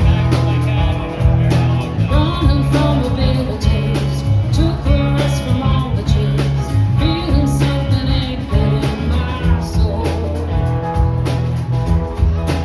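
Band playing a blues-rock song, with electric guitar over a steady bass line and drums.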